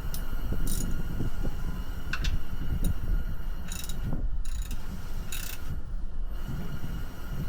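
Scattered metallic clicks and clanks of hand tools tightening parts under the ambulance during an oil change, over a steady low rumble of wind buffeting the microphone.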